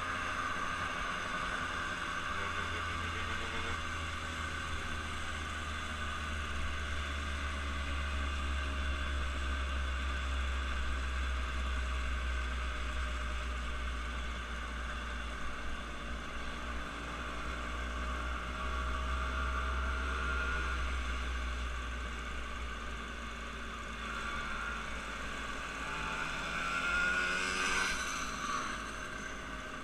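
Steady drone of an engine-driven vehicle, with pitch slides as engine speed changes, and a louder pass near the end as another vehicle goes by.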